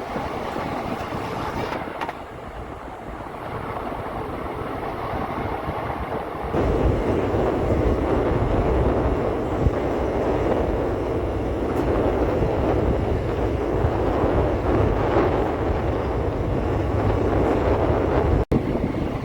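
Indian Railways express train running at speed, heard from on board: a steady rumble of wheels on rail mixed with rushing air. It becomes clearly louder about six and a half seconds in and breaks off for an instant near the end.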